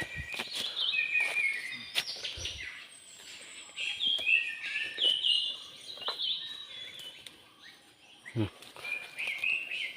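A songbird singing close by: bouts of quick, sliding whistled notes, at the start, again from about three and a half to six seconds in, and near the end. One brief low falling sound comes about eight and a half seconds in.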